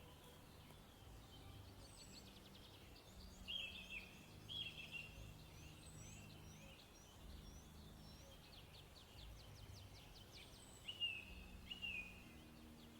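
Faint birdsong: a songbird giving quick runs of chirps and short falling whistle notes in several bursts, the clearest a few seconds in and again near the end, over a faint low steady drone.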